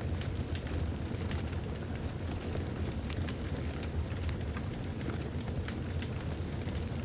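Fireplace fire burning: a steady low rumble with scattered sharp crackles and pops of the burning wood.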